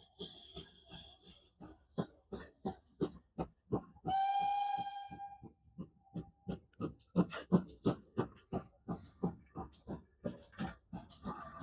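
Steam locomotive working, its exhaust beating about three times a second, with a hiss of steam in the first two seconds. About four seconds in it gives one long steady blast on its whistle.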